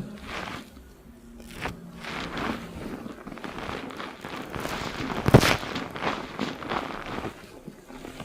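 Hands scrubbing shampoo lather through hair on the scalp: an irregular run of wet rubbing strokes, with one louder burst about five seconds in.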